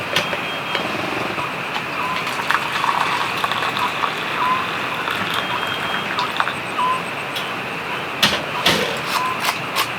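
Heavy rain falling steadily on an inflatable tent, a continuous hiss with sharp drops and taps hitting the fabric; the taps come thicker and louder near the end. A faint short rising chirp recurs every couple of seconds.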